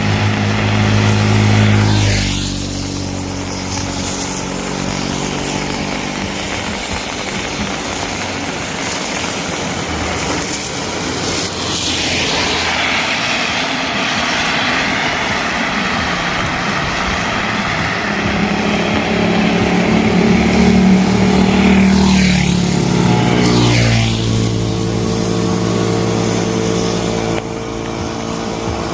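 Motor vehicles driving past on a wet road: an engine hum that drops in pitch as a vehicle goes by, twice, with a surge of tyre hiss in the middle, over a steady hiss of rain.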